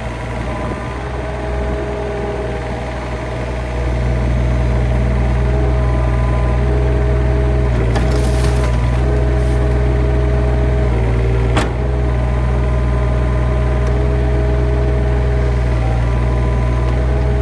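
A heavy engine running steadily, louder from about four seconds in. Partway through there is a brief crackling burst, then a single sharp crack.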